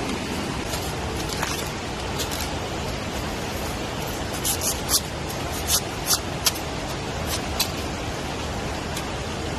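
Steady rushing of water, with a scattering of sharp clicks and taps from about halfway through.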